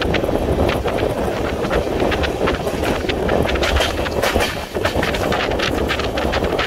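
Passenger express train running on the track, heard from inside a coach: a steady low rumble of wheels on rails with a rapid, irregular run of short, sharp clicks.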